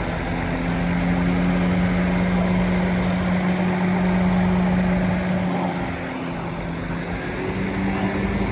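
Bulldozer's diesel engine running steadily, easing off about six seconds in and picking up again near the end.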